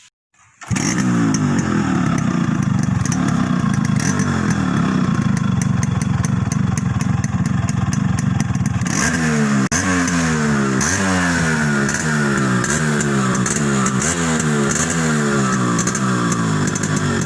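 Yamaha RX 135 two-stroke single-cylinder engine running through its stock muffler. It runs steadily at first, then about halfway through it is blipped repeatedly, the revs rising and falling a little more than once a second.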